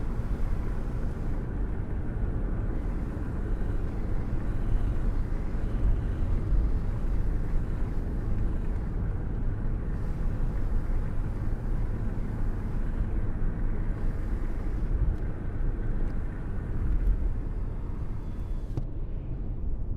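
Thunderstorm rain ambience: a steady, low, rumbling noise without breaks, with most of its weight in the deep bass.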